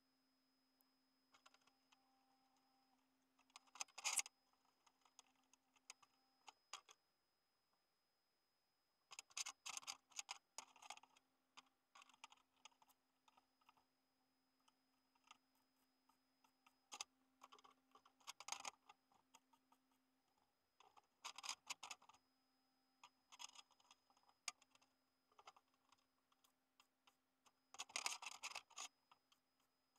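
Near silence with a faint steady hum, broken by several short clusters of light clicks and taps.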